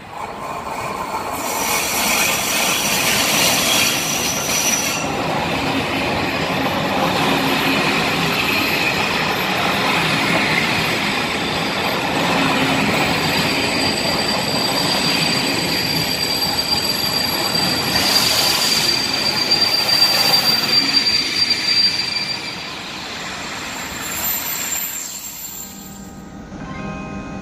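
Passenger coaches behind a Czech Railways electric locomotive rolling past slowly, the running noise of the train overlaid by high-pitched wheel squeal: one squeal a couple of seconds in and a longer one through the middle. The noise drops away near the end.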